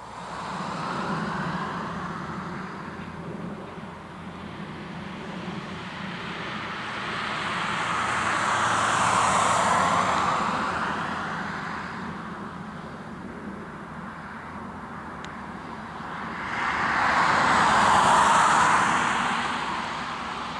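Jet noise from the Antonov An-124-100's four turbofan engines at high power: a steady rumble that swells loud and fades back twice.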